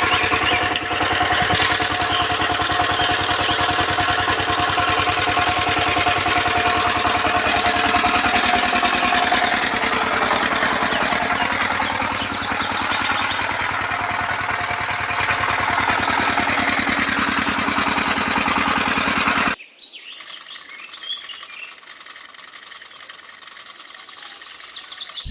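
Small engine running steadily with a rapid, even pulse, then cutting off suddenly about nineteen seconds in. Afterwards birds chirp over a quieter background.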